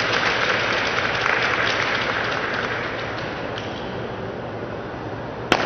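Audience applauding, the clapping thinning out over the last couple of seconds. A single sharp click near the end.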